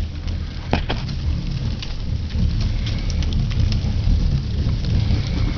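Fire crackling and popping in a fireplace over a steady low rumble, with one sharper pop about a second in.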